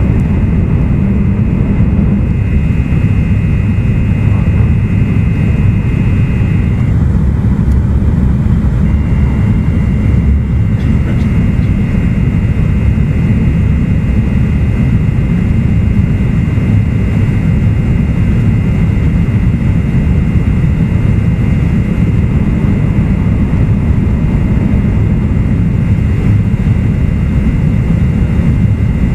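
Running noise inside a car of an E2 series Shinkansen at speed: a steady heavy rumble with a thin high whine over it, which partly drops out for about two seconds around seven seconds in.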